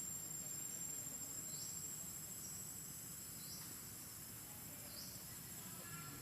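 Insects, crickets or cicadas, droning on one steady high pitch, with short rising chirps about every two seconds.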